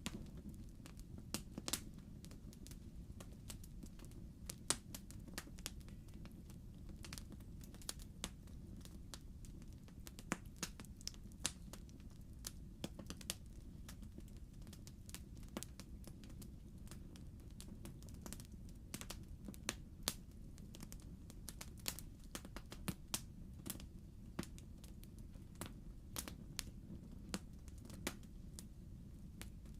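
Wood fire crackling in a fireplace: irregular sharp pops and snaps, a few louder than the rest, over a low steady rumble of the flames.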